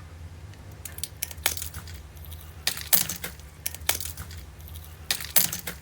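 Fridge-chilled, stiffened giant water beads crackling and snapping as they are handled and squeezed, in sharp irregular clicks that start about a second in, over a low steady hum.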